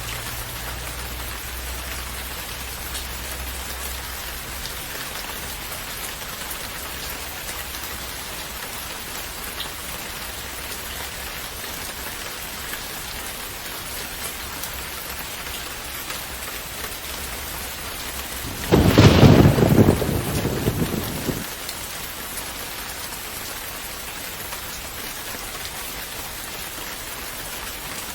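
Steady rain falling, with a sudden loud thunderclap about two-thirds of the way through that dies away over about three seconds.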